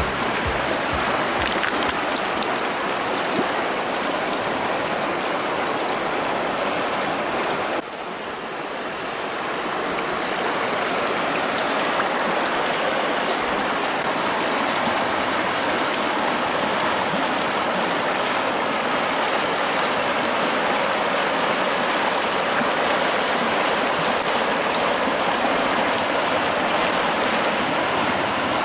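Shallow river flowing fast over rocks, a steady rush of water. The sound drops suddenly about eight seconds in and swells back over the next two seconds.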